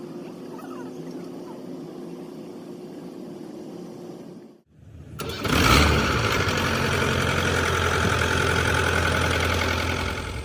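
An engine starts up about five seconds in and then runs steadily at a fairly constant speed, much louder than the quieter steady machine hum heard before it.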